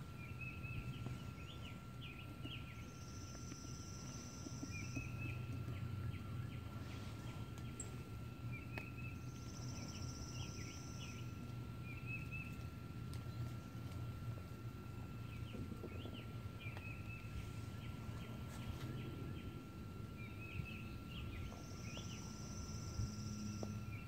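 Wild songbirds calling: short chirping phrases every few seconds, and three times a high, dry trill about two seconds long. Underneath runs a steady low rumble and a faint steady high tone.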